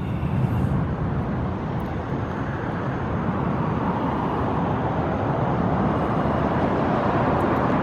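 Steady rumble of distant motor vehicles, swelling slightly toward the end.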